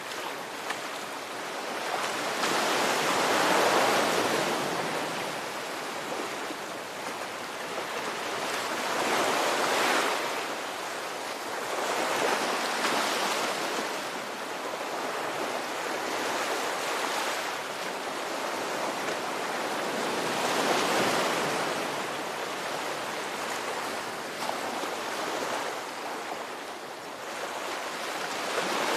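Ocean surf: waves breaking and washing in, the rush of water swelling and ebbing every several seconds.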